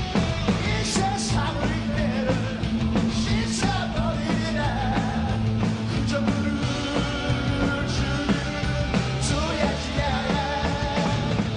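Rock band playing live, with a lead vocalist singing over distorted guitars, bass and drums crashing cymbals.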